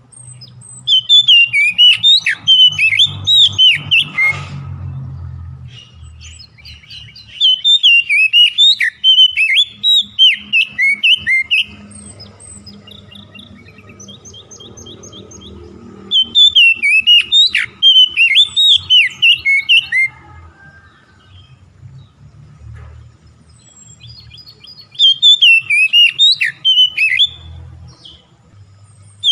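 Songbird singing loud phrases of rapid whistled notes that sweep up and down, four bursts of a few seconds each with softer chirps between: a recorded song played as a lure to get caged birds singing.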